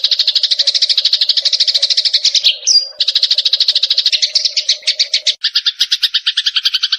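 Eurasian tree sparrows chattering in rapid trains of chirps, about ten a second, from a bird-lure recording. About two and a half seconds in, a short rising whistle and a brief break interrupt the chirps. The chirps then slow, and from about five and a half seconds a second run of chirps with an added lower note takes over.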